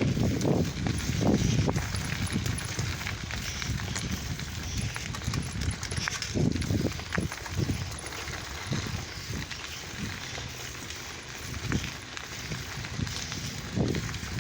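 Lowrider bicycle being ridden: irregular knocks and rattles over a steady rush of wind on the microphone.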